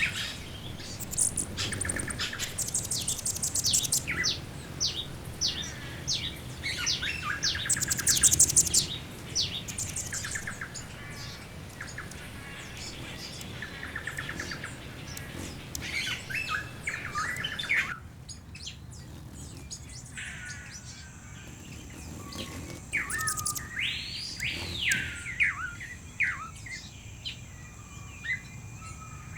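A chorus of wild birds chirping and trilling, with many quick overlapping notes and rapid trills. About two-thirds of the way through it changes abruptly to a thinner scene: a few separate whistled calls over a steady high insect-like hum.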